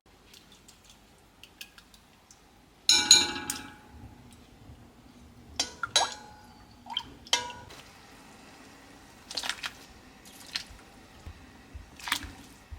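Kitchenware clinking and clanking as dishes and cookware are handled: one loud ringing clank about three seconds in, then a scattering of shorter clinks and knocks.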